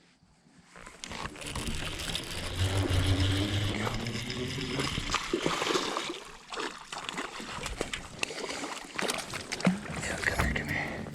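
Water splashing with knocks and rustling as a bass is handled and brought in at a kayak, in uneven bursts after a quiet first second.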